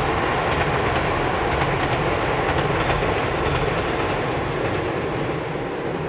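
Electric commuter train running across a steel girder railway bridge: a steady rumble and wheel noise on the rails, easing off in the last couple of seconds as the train moves away.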